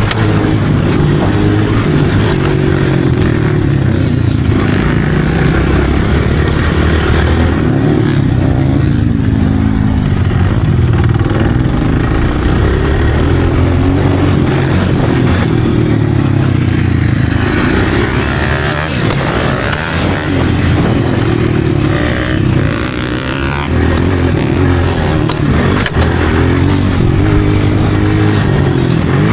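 Dirt bike engine running loud and revving up and down repeatedly as it is ridden.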